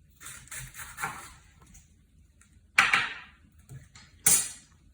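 Sharp kitchen knife slicing napa cabbage on a cutting board. A few soft crunching cuts come early, then two louder, sudden cuts, one about three seconds in and one near the end.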